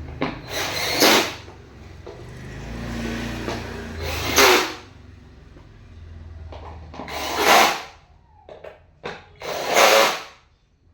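Power drill run in four short bursts a few seconds apart, driving screws while an office chair is assembled.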